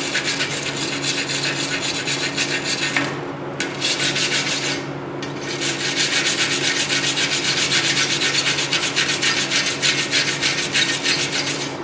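Metal being scrubbed by hand with rapid back-and-forth strokes, cleaning it to bare shiny metal before welding. The scrubbing stops briefly twice, about three and five seconds in, over a faint steady hum.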